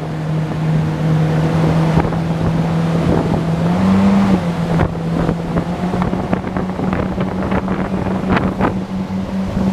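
Motorboat engine running at speed with a steady drone that rises briefly in pitch about four seconds in and again near the end, with wind buffeting the microphone.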